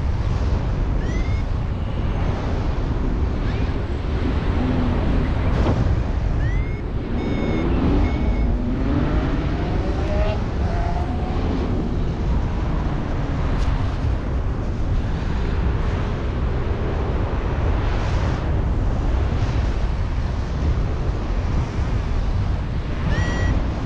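Strong wind buffeting the microphone in flight under a paraglider: a steady low rumbling rush. A few faint short high chirps come through now and then.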